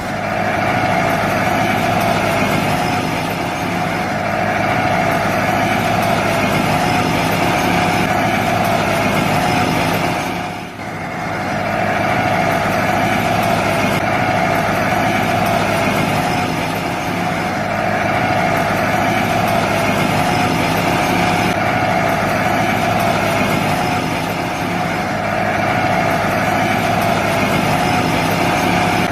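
Small motor running steadily with an even hum, dipping briefly and picking back up about eleven seconds in.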